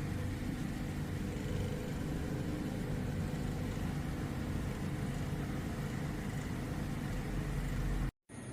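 A vehicle engine running steadily, a low, even rumble with no change in speed, that cuts off abruptly near the end.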